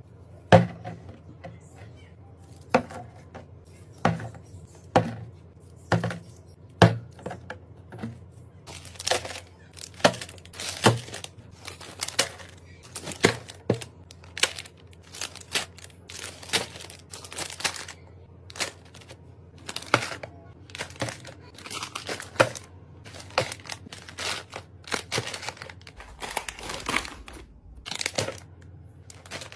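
Plastic snack wrappers and packets being handled one after another: sharp knocks and taps about once a second at first, then steady crinkling and rustling of packaging.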